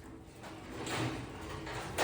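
Faint scraping and sliding of things being handled on a shop table, growing a little louder about a second in.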